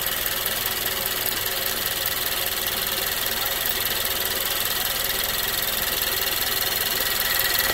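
Nissan Juke Nismo RS's turbocharged 1.6-litre four-cylinder engine idling steadily, heard up close in the engine bay beside its GFB blow-off valve, with a thin steady high whine over it.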